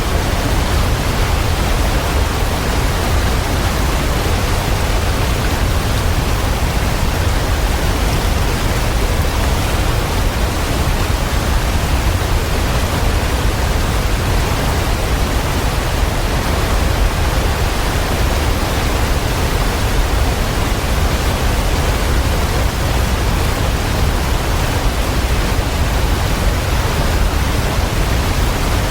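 Waterfall: a steady, full rush of falling water with a deep low rumble, unchanging throughout.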